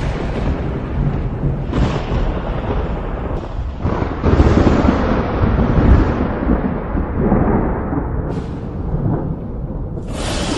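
Thunderstorm: thunder rumbling continuously, with fresh cracks breaking in at about two and four seconds and again near the end, the loudest peal rolling for a couple of seconds after the four-second crack.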